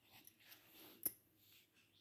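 Pencil strokes scratching on paper, with one sharp click about a second in.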